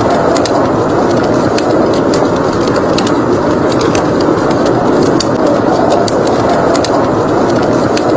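Steady rush of blizzard wind with a wood fire crackling over it: frequent short, sharp snaps at irregular intervals.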